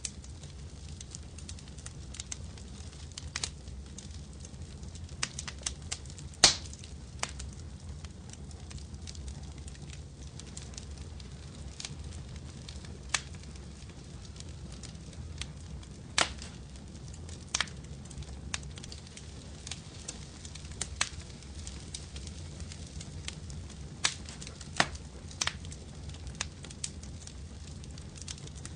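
Fireplace fire crackling: irregular sharp pops and snaps over a steady low rumble, the loudest pop about six seconds in.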